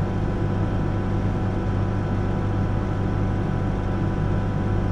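Backhoe's diesel engine running at a steady pitch, heard from the operator's seat.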